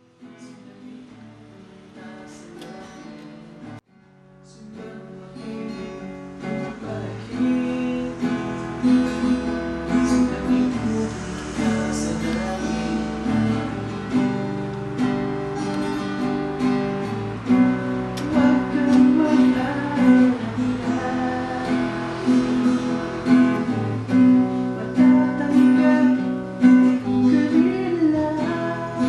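Acoustic guitar music with strummed chords. It opens softly, breaks off briefly about four seconds in, then builds to a fuller, louder accompaniment.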